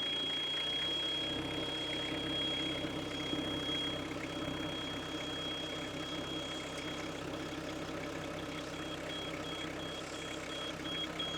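Diesel engine of a Hitachi EX55UR mini excavator idling steadily just after it has finally started, following a cold start helped by starting fluid. A steady high beep sounds over it and breaks into rapid pulsing beeps about seven seconds in.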